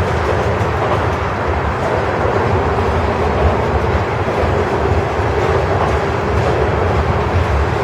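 Norfolk Southern freight train rolling past at steady speed, its cars rumbling on the rails in a continuous, even roar.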